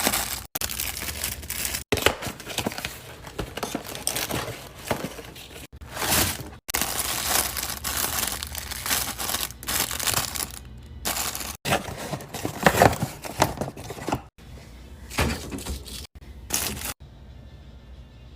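Plastic packaging crinkling and rustling as groceries are handled and unpacked, with occasional light knocks, in short segments that stop and start abruptly.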